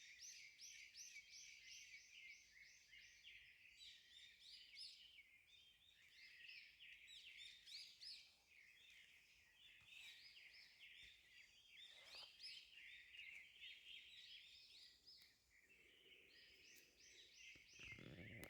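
A steady outdoor chorus of high, rapidly repeated chirping notes from small animals, faint and continuous. A few faint clicks, and a short low bump near the end.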